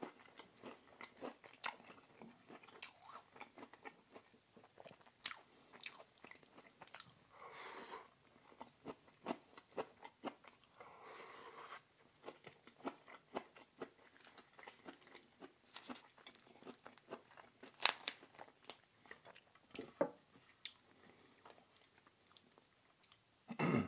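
Close-miked eating: a person biting and chewing food with many small wet clicks and smacks of the mouth, a sharper one about three quarters of the way through.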